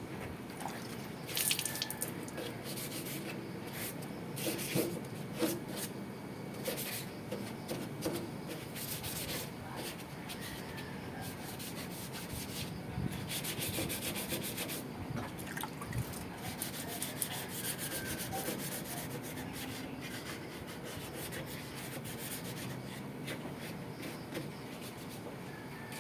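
Hand rubbing on the metal of an exhaust hood, with irregular scraping strokes that come in short spells.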